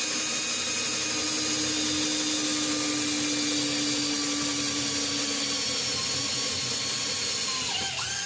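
Electric power drill running at steady speed, then winding down and stopping near the end.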